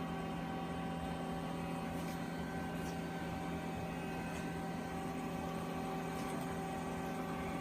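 Steady electrical hum made of several steady tones, with a few faint light clicks about two, three and four and a half seconds in.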